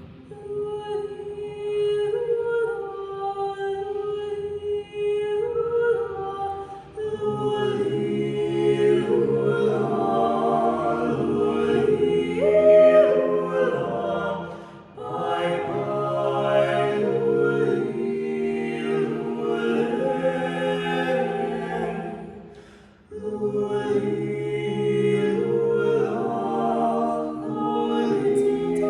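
An a cappella choir singing slow, sustained chords. Lower voices join about a quarter of the way through, and there are short breaks between phrases.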